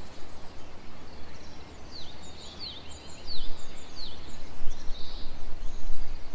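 Small birds calling outdoors: a run of short, quick chirps sweeping downward in pitch through the middle, over a steady low rumble.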